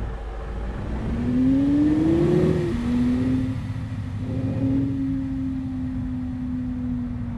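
Diesel engine of a heavily loaded truck revving up for about two seconds, then dropping back abruptly and pulling steadily at a lower, even pitch.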